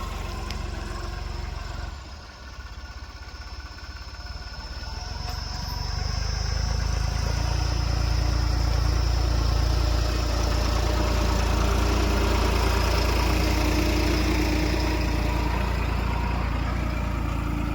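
New Holland tractor's diesel engine running, dipping about two seconds in, then building up and running louder and steady from about six seconds on.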